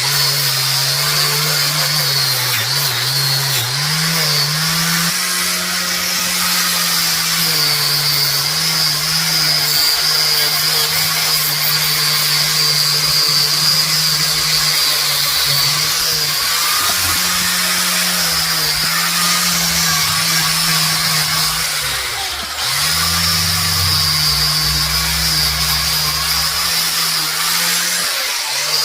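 Handheld electric power tool running continuously under load, its motor pitch wavering, with a short break about 22 seconds in and another near the end.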